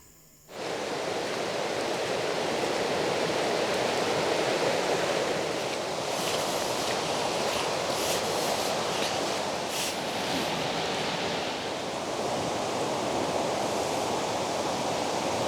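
Steady rushing of a waterfall, starting about half a second in.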